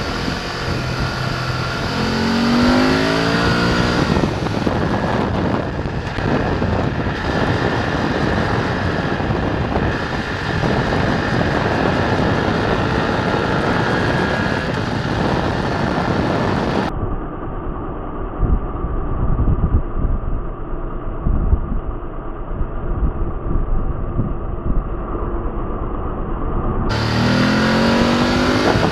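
BMW F 850 GS motorcycle's Chinese-built parallel-twin engine under way, revving up through the gears with rising pitch a couple of seconds in and again near the end, running steadily in between.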